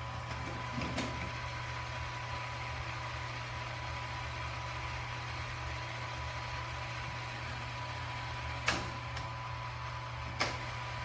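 Robot vacuum (iRobot Roomba Combo j7+) running with a steady motor hum and a thin high tone, with a few sharp knocks about a second in and twice near the end.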